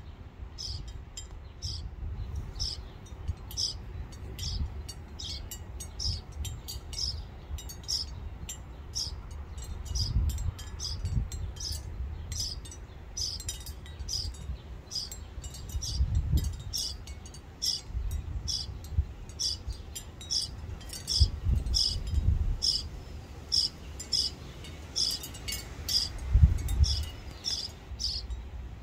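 A bird chirping over and over, short high chirps about twice a second, with low rumbles of wind on the microphone now and then.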